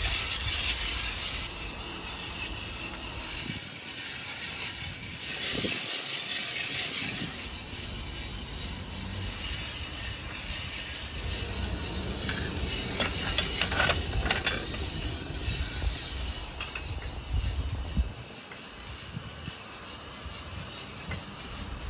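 Hand-turned drum coffee roaster turning over a wood fire, the beans rattling and tumbling inside in a steady mechanical clatter.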